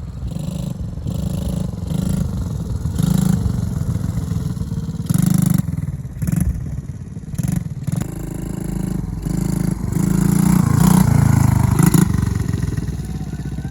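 Mini ATV engine running and revving up and down repeatedly as it is ridden over the dirt ramps, loudest about ten seconds in.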